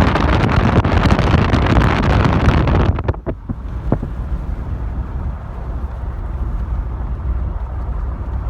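Wind buffeting the microphone over the rumble of a moving vehicle. About three seconds in the wind noise drops off sharply, leaving a quieter low rumble, with a few short knocks just after the drop.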